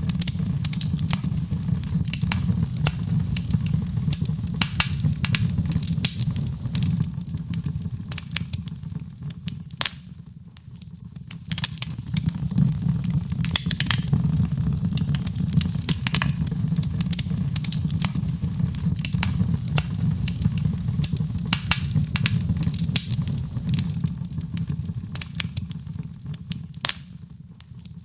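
Wood fire crackling in a fireplace: irregular sharp pops and snaps over a steady low rumble of flame. It dies down briefly about ten seconds in and again near the end.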